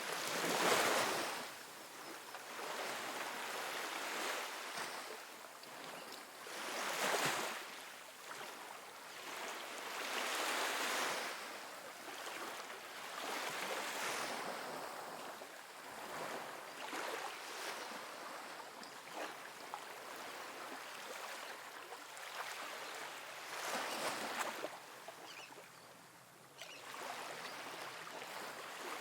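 Soft ocean waves washing onto a sandy beach, a steady hiss of surf that swells with each breaking wave, about every three to four seconds, and ebbs between them.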